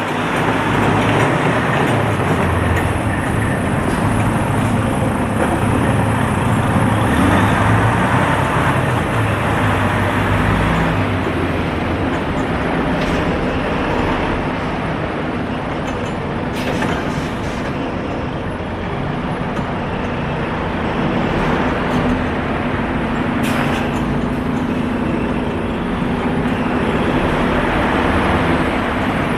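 Steady road and engine noise of a moving vehicle, an even rumble and hiss with a low engine hum underneath.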